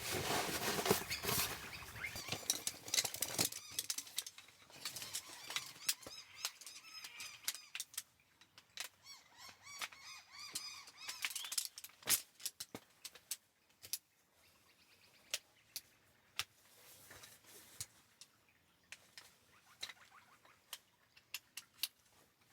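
Rustling and handling of camping gear for the first few seconds, then scattered light clicks and taps, with small birds chirping in short calls partway through.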